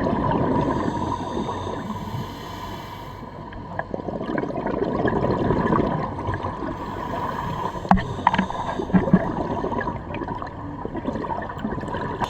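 Underwater sound of a scuba diver breathing through a regulator: swells of bubbling, gurgling exhalations every few seconds.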